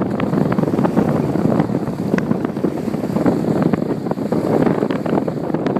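Strong wind buffeting the microphone while sailing, with water rushing and splashing in frequent small sharp spatters.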